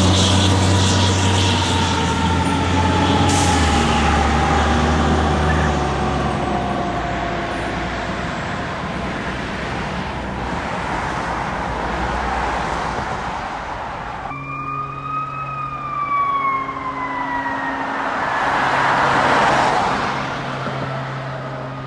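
Fire engines passing with warning devices sounding. A siren winds slowly down in pitch over a heavy truck engine. Then another siren rises and falls while a low horn sounds in several short blasts and a truck goes by.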